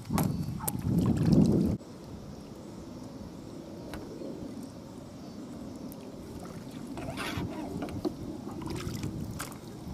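Wind buffeting the microphone over water lapping at the bank, with a louder rumbling gust in the first two seconds that cuts off suddenly and a few light clicks later on.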